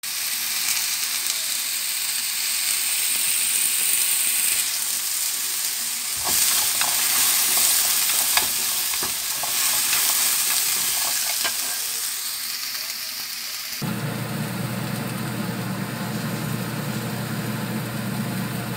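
Diced potatoes and carrots sizzling as they stir-fry in a wok, with sharp clicks and scrapes of wooden chopsticks turning them. About three-quarters of the way through, the sound changes suddenly to a steady hiss over a low hum.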